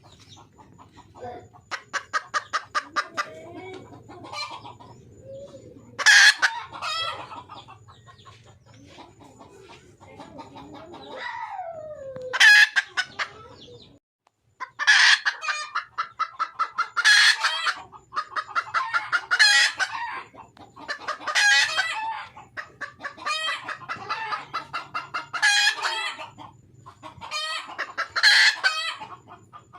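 Wild junglefowl hen calling for a mate: repeated bouts of rapid cackling calls, one falling in pitch about halfway through, coming about every two seconds in the second half.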